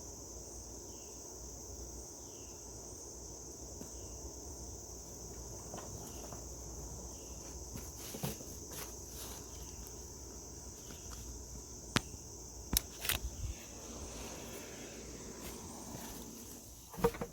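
Steady high-pitched chirring of crickets or other insects, with a few short clicks and knocks of handling or footsteps partway through.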